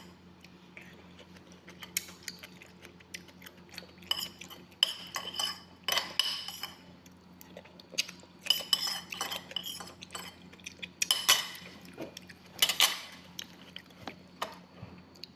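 Cutlery clinking against a plate and bowl while eating, in irregular clicks and short bursts.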